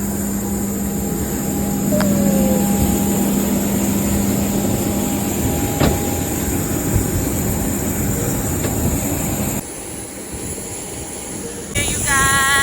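Steady rumble of a vehicle in motion with a constant low hum, which cuts off abruptly about ten seconds in. A warbling pitched sound begins near the end.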